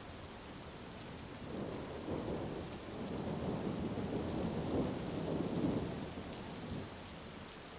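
A roll of thunder rumbling over steady heavy rain: the rumble swells in about a second and a half in, is loudest a little past the middle, and dies away near the end.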